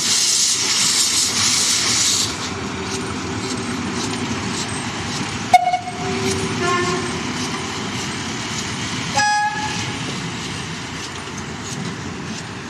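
Steam locomotive letting off a loud hiss of steam for about two seconds, then sounding short toots on its whistle a few seconds apart, over a steady low rumble.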